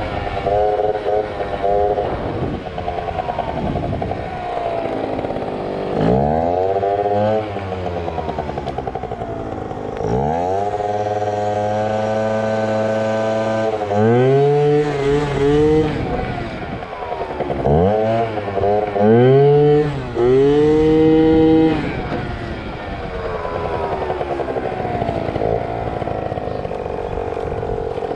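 Small two-stroke Yamaha ZR Evo scooter engine revving hard about five times, its pitch climbing steeply and falling back between spells of steadier running, as the throttle is blipped to lift the front wheel for a wheelie.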